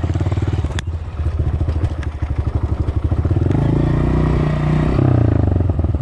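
Dirt bike engine running under way, pulsing steadily, revving up about three and a half seconds in and easing back shortly before the end. A sharp knock comes just under a second in.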